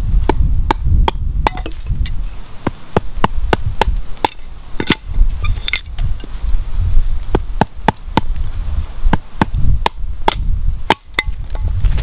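Hatchet chopping a stick of dry wood, splitting it for fire kindling: a run of sharp wooden chops, about two or three a second, with a short pause near the end.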